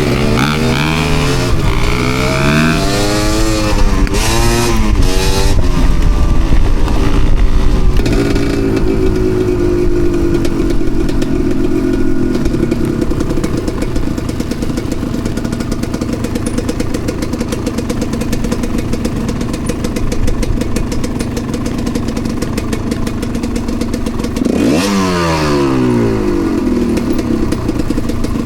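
Enduro dirt bike engine revving up and down while being ridden, settling to a steadier note about eight seconds in, then revving up sharply again near the end.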